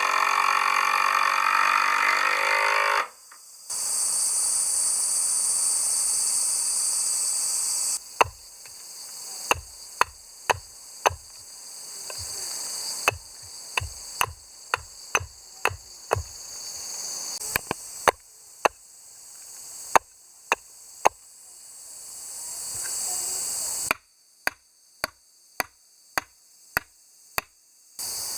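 Hammer blows on wood, a series of sharp strikes roughly a second apart, then a quicker run of about three a second near the end, over a steady high hiss of insects.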